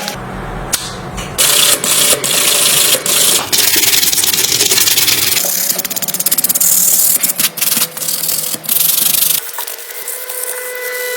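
Abrasive rubbing on a small hard part in a series of uneven strokes, with sharp clicks between them.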